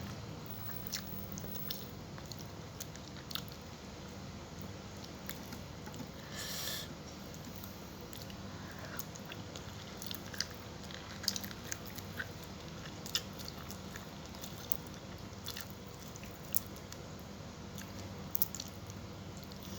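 Close-up mouth sounds of a person eating fried tilapia: chewing and biting with scattered wet clicks and smacks, and a brief louder hiss-like noise about six to seven seconds in.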